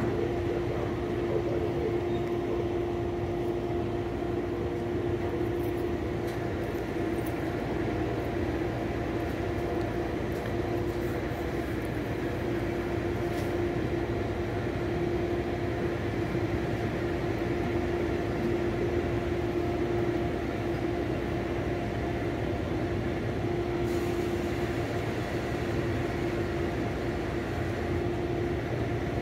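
Steady train hum: a constant mid-pitched tone over an even low rumble that neither rises nor falls.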